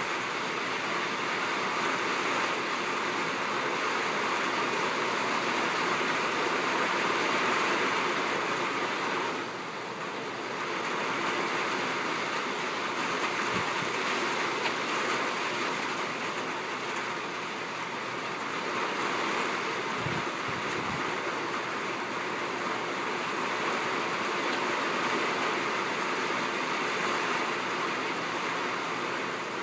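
Steady heavy rain drumming on a tin roof, a dense even patter that eases briefly about ten seconds in. A few faint low knocks come through near the middle.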